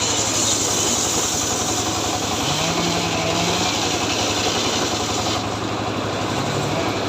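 Two-stroke chainsaw engine running steadily at speed. A bright hiss over it, heard as the chain cuts through wood, drops away about five seconds in while the engine keeps running.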